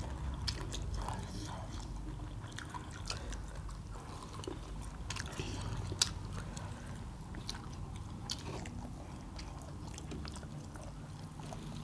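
Close-up eating sounds: chewing quail meat and curried rice, with many small wet clicks and ticks scattered throughout.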